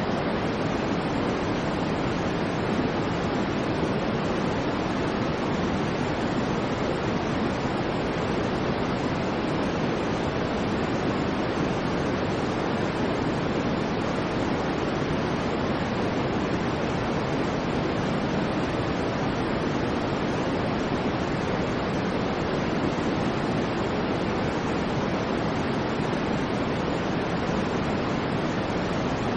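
Continuous steady white noise: an even, unbroken hiss with no swells or pauses, fuller in the lower range.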